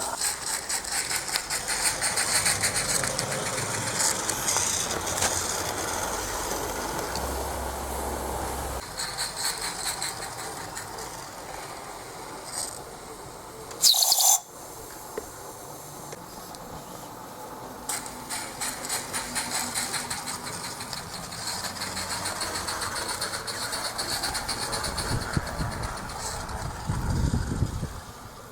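SM32-gauge garden-railway train running along outdoor track, with a steady rattle of fine clicks from the wheels on the rails. About halfway through there is a brief, loud, high-pitched squeal, after which the running carries on more quietly.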